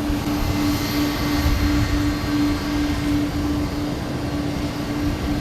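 Pratt & Whitney PW4090 turbofans of a departing Boeing 777-300 airliner, a steady jet rumble and hiss. A low tone pulses through it about two to three times a second.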